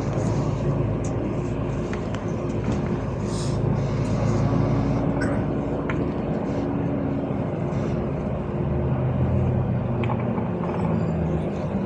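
Inside a LiAZ 5292 low-floor city bus under way: the engine and drivetrain hum steadily with road noise, the pitch drifting as the bus changes speed, with a few faint rattles from the cabin.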